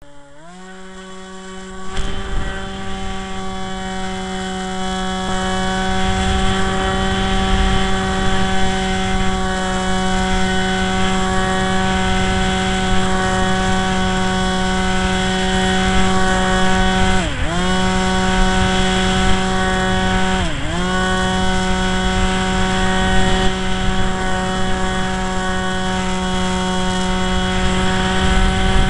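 Electric motor and propeller of a Firebird RC model plane spinning up in the first second, then running at a steady pitch, dropping briefly in pitch twice late on as the throttle is pulled back and opened again. Wind rumbles on the microphone throughout.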